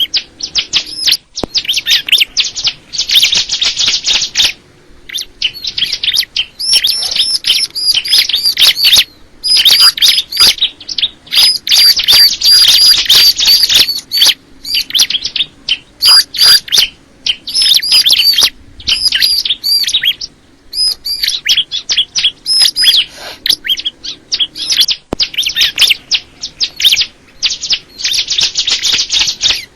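Ciblek kristal, a bar-winged prinia, singing in fast, high, trilled phrases of rapid repeated notes, broken by short pauses.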